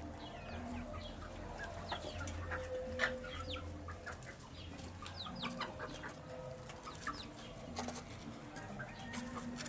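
Baby chicks peeping, many short high chirps falling in pitch and overlapping, with a few sharp clicks among them.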